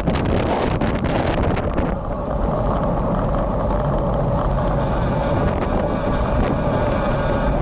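Wind buffeting the built-in microphone of a bike-mounted action camera during a ride in rain, with a steady hum underneath. The first two seconds carry a dense crackle that then drops away.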